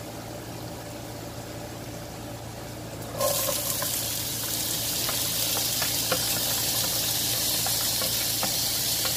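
Chopped carrots, capsicum and green chillies tipped into a nonstick wok of hot oil about three seconds in, setting off a loud, steady sizzle. A spatula then taps and scrapes in the wok as the vegetables are stirred.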